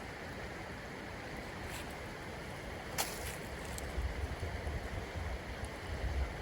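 A forest stream flowing steadily, with a single sharp click about halfway through. From about two-thirds of the way in, wind gusts buffet the microphone with low, uneven rumbles.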